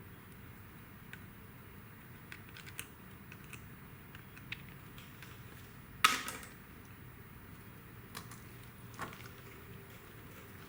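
Tire plug kit tools being handled at a motorcycle tire puncture: scattered light clicks and taps, and one loud, sharp knock about six seconds in.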